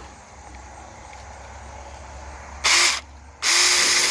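Small cordless electric mini chainsaw triggered in a short blip, then started again about three and a half seconds in and running steadily at full speed with a steady whine.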